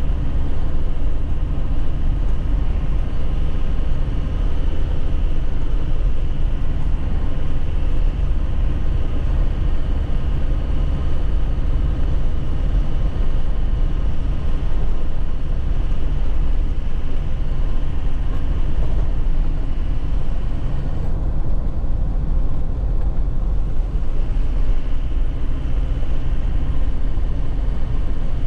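2001 Nissan Cabstar light truck's diesel engine running steadily while driving, a loud, deep rumble with road noise. Near the end the higher part of the sound drops away for a few seconds.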